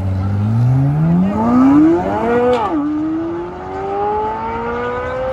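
A sports car engine accelerating hard through the gears. Its pitch climbs steadily for about two and a half seconds, drops sharply at an upshift, climbs again, and drops at a second upshift near the end.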